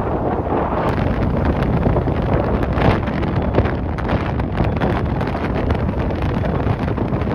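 Strong gusting wind buffeting an outdoor microphone: a loud, steady rumble with rapid crackling hits.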